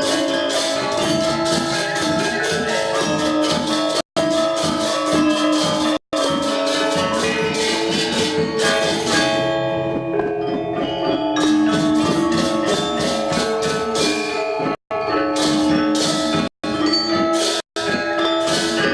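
Balinese gamelan gong ensemble playing a classical lelambatan piece: bronze metallophones and gongs ringing under fast, steady strokes of a high, hissing metal percussion. The sound cuts out for an instant five times.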